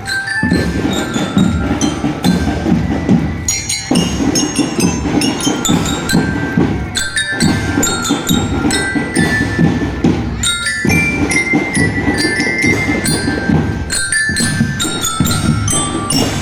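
A marching drum band playing: a dense beat of drums, with bright metal bell-lyra (marching glockenspiel) tones carrying the melody above it. The playing falls into phrases, with a brief break about every three and a half seconds.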